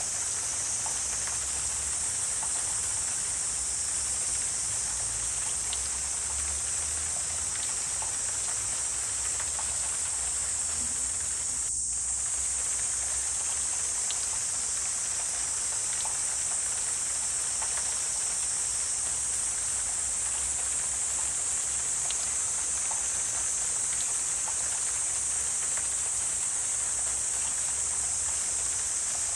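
Wetland ambience: a steady, high-pitched chorus of insects with a faint low rumble underneath and scattered faint ticks. The sound briefly cuts out about twelve seconds in.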